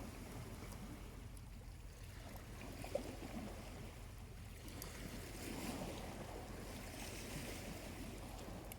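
Small waves washing gently onto a quiet beach, swelling about three seconds in and again through the middle. A few faint ticks from a smouldering charcoal fire.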